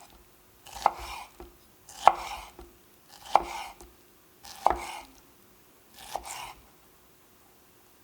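Kitchen knife slicing okra on a cutting board: five unhurried cuts about a second and a bit apart, each a short swish ending in a sharp tap on the board.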